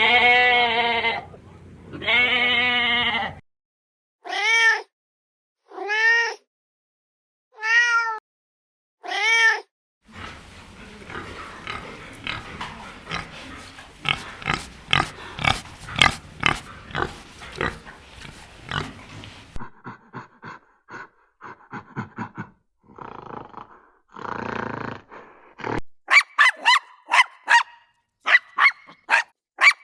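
Different animal calls cut back to back: two long wavering calls, then four short rising-and-falling calls, a long stretch of noisy grunting, and quick high chirps near the end.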